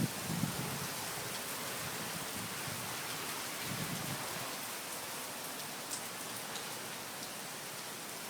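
Heavy rain pouring down in a steady hiss of drops hitting hard surfaces.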